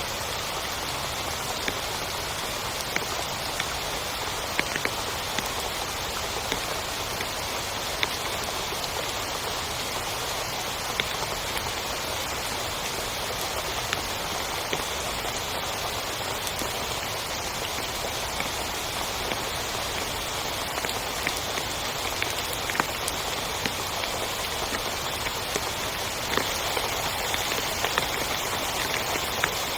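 Heavy rain falling steadily on a tent, a constant hiss with many single drops tapping sharply over it.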